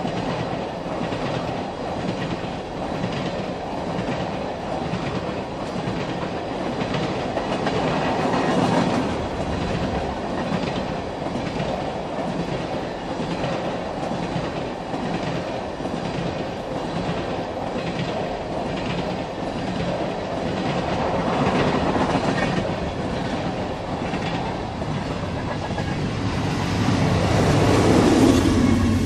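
Loaded oil tank cars of a freight train rolling past, wheels clicking steadily over the rail joints with a continuous rumble. Near the end the locomotives at the rear of the train pass with a louder rumble, and the sound drops away as the train clears.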